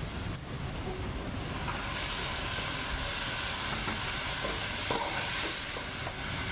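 Chopped vegetables and diced tomatoes sizzling in oil and butter in a pot on the stove, the soup base for a bouillabaisse. The sizzle gets louder about two seconds in.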